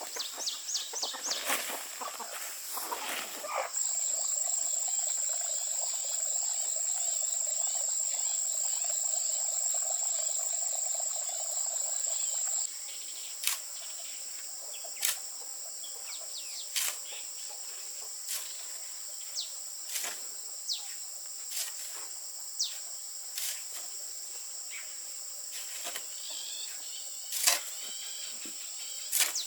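Insects (crickets) trilling steadily at a high pitch, louder for several seconds before dropping back, with short sharp chirps or ticks every second or two in the later part.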